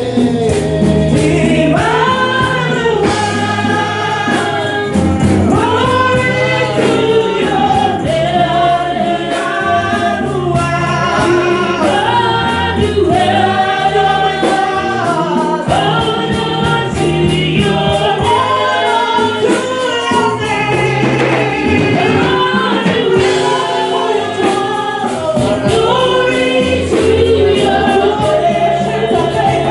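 A choir singing a gospel song with bass and keyboard accompaniment.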